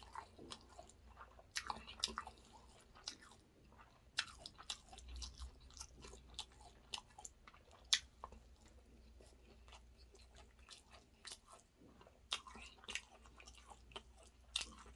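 Close-up chewing of a hand-fed mouthful of chicken biryani rice: irregular wet mouth clicks and smacks, the sharpest about eight seconds in.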